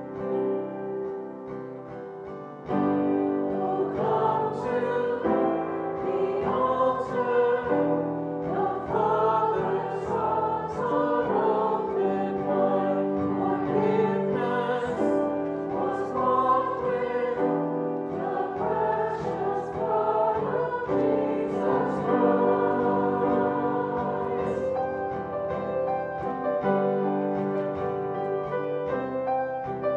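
Choir singing a hymn with piano accompaniment, in long held notes, growing louder about three seconds in.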